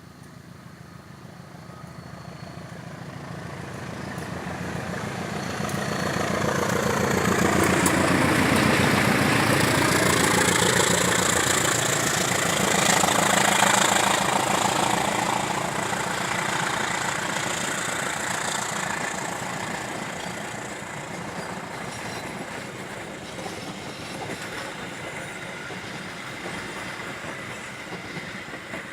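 A CC203 diesel-electric locomotive hauling a passenger train departs and passes by. The rumble of the engine and the rolling wheels grows over the first eight seconds, stays loudest until about fourteen seconds in, then slowly fades as the carriages roll away.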